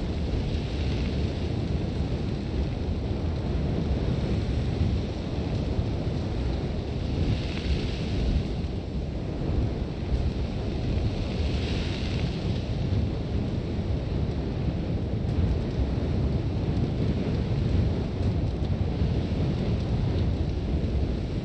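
Sandstorm wind blowing hard against the microphone with a steady low rumble, and blown sand hissing in gusts that swell up a few times.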